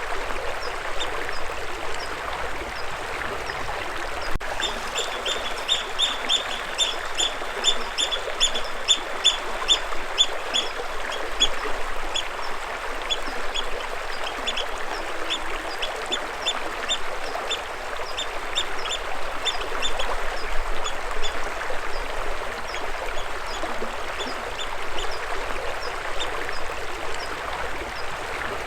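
Water running steadily, with a bird calling in long runs of short, high chirps at about three a second.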